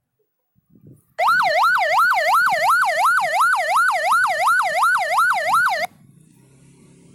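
Police siren switched on about a second in, sounding a fast yelp: a loud wail rising and falling about three times a second, then cut off suddenly.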